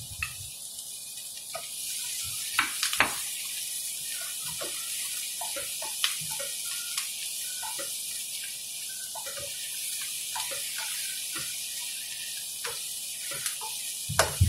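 Pork, onion and garlic frying in oil in a nonstick pan: a steady sizzle that grows louder about two seconds in, with a spatula scraping and tapping against the pan now and then and a sharper knock near the end.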